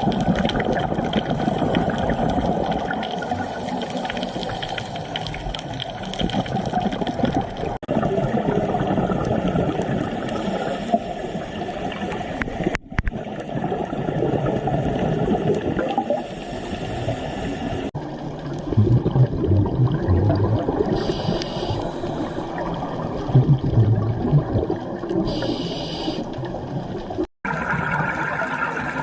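Rushing water sounds that change abruptly several times, as one scene gives way to the next. In the middle stretch there are short, low, pitched bursts.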